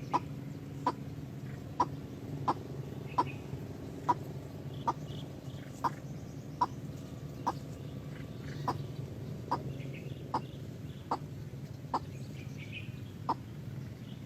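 Chicken clucking: short, evenly spaced clucks a little more than once a second, over a steady low hum.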